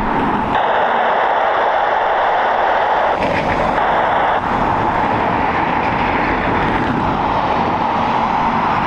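Jet aircraft engines running, a steady loud rush with a faint high whine.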